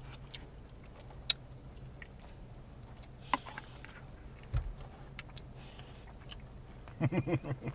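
Eating sounds: soft chewing of a bite of chocolate pecan pie, with a few scattered small clicks and one dull thump about halfway through, over a steady low hum. A short voiced murmur near the end.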